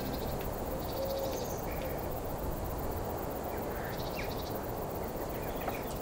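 Quiet outdoor ambience: a steady low hiss with faint, scattered chirps, a couple of short trills among them.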